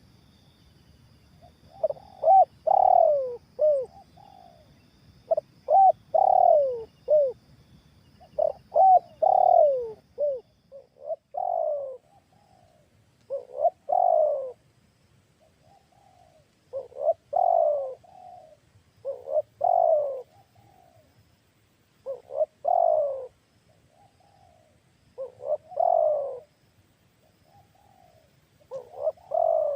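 Spotted dove (tekukur) cooing: repeated phrases of several short, falling coos, one phrase every two to three seconds, starting about two seconds in.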